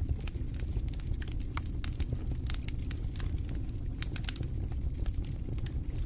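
Wood fire burning in a fireplace: a steady low rumble of the flames with frequent, irregular sharp crackles and pops throughout.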